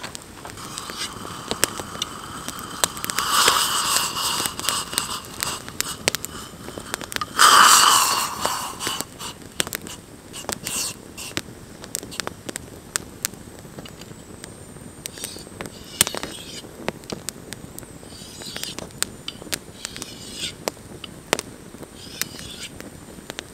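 Wood campfire crackling, with sharp pops scattered throughout. About 3 and 8 seconds in come two louder stretches of hiss carrying a held whistling tone.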